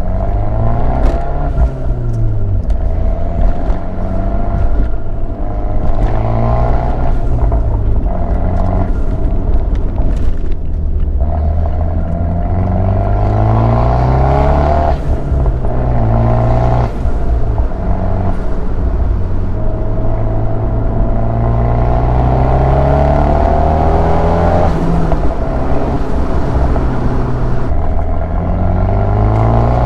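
Big-turbo Abarth 124 Spider's 1.4-litre turbocharged four-cylinder through a Ragazzon exhaust, heard with the top down, pulling hard. Its pitch climbs steeply and drops back again and again as it revs out and shifts up, with a few sharp cracks in between.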